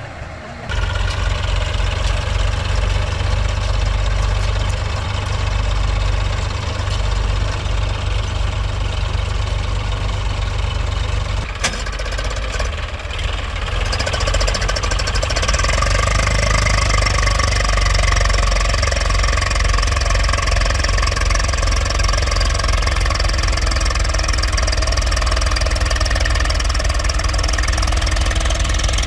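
Tractor diesel engine running steadily with a low, even knock, coming up sharply just under a second in and getting a little louder about halfway through.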